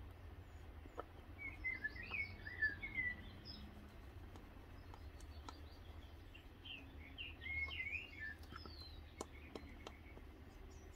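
A small bird twittering in two short bursts of quick chirps, about two seconds in and again about seven seconds in, over a low steady hum. A few faint clicks come from a stick scraping against a plastic cup.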